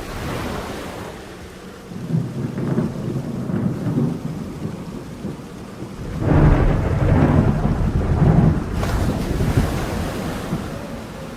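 Rain falling steadily, with rolling thunder: a rumble about two seconds in and a louder, longer roll of thunder from about six seconds in.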